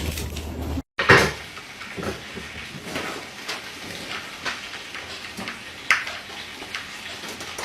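Scattered knocks and light clatters of small hard objects, with a loud knock just after one second in and another sharp one about six seconds in.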